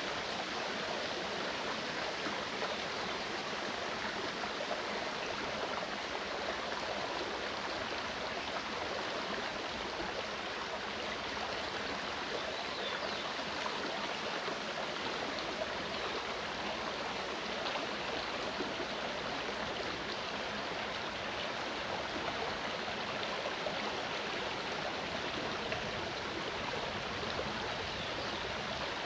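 Mountain stream flowing: a steady, even rush of running water with no breaks.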